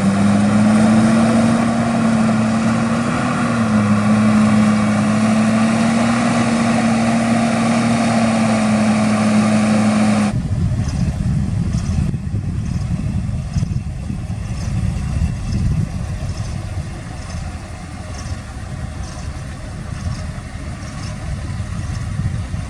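Heavy diesel machinery running: a loud engine at a steady high speed for about ten seconds, then an abrupt cut to a lower, rougher engine rumble with faint regular ticking.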